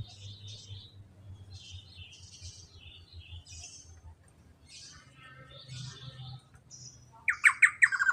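Black-naped oriole singing: faint, scattered high chirps, then near the end a loud, rapid run of notes.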